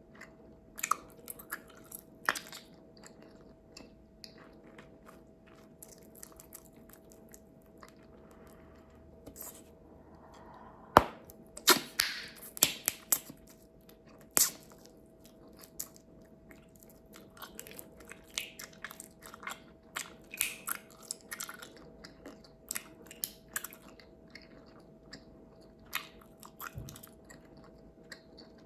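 Bubblegum chewed close up, with many short wet snaps and clicks. Several louder sharp pops stand out, the loudest about eleven seconds in, followed by a quick run of snaps and one more sharp pop a few seconds later.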